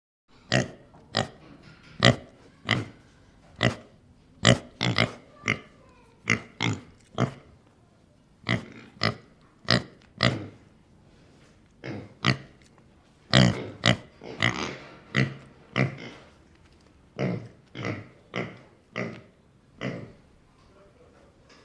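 A run of short, sharp animal calls, about one or two a second, with a few brief pauses.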